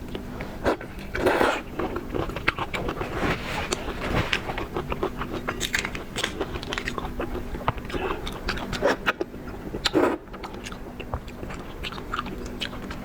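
Close-up eating sounds of raw shrimp being bitten and chewed: wet chewing with many small clicks and crackles. Louder crunchy bites come about every two seconds, the strongest about a second and a half in and again near ten seconds.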